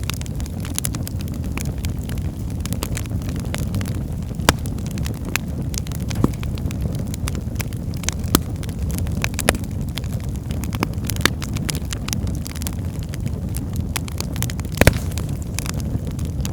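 Wood fire burning in a fireplace, crackling steadily over a low rumble of the flames, with a few sharper pops, the loudest near the end.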